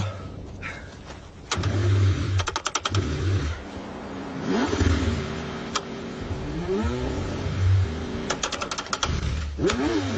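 Car engine being cranked in the cold, with repeated low rumbling stretches and two bursts of rapid clattering ticks. Between them the pitch rises and falls as the engine briefly catches and revs.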